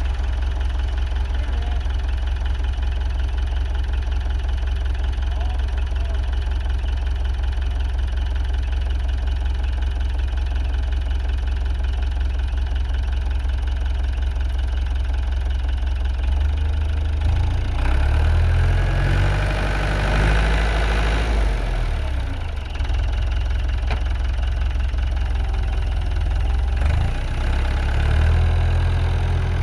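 Engine idling steadily, then revving and running harder from about 17 seconds in, its pitch rising and falling as the load changes, and easing off briefly partway through.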